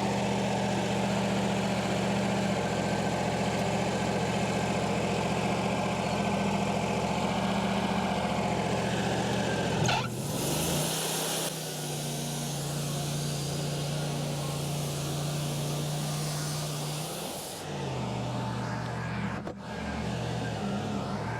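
Wood-Mizer LT40 sawmill's engine running steadily. About halfway through its note changes suddenly, with a brief hiss, and it settles into a different steady note. There is a short click near the end.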